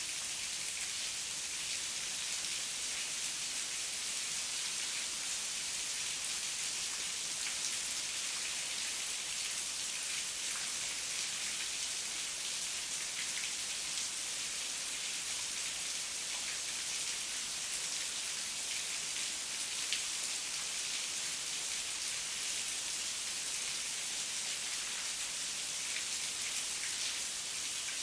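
Steady heavy rain falling, a dense hiss with scattered sharper drop patters and no thunder.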